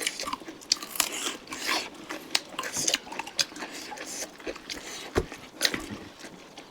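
Close-up eating sounds of chicken curry being chewed: irregular sharp mouth clicks and smacks with brief hissing sucks between them.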